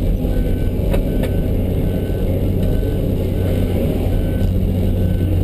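A John Deere 650D LC's diesel engine running steadily. A backup alarm beeps a little more than once a second, and there are two short clicks about a second in.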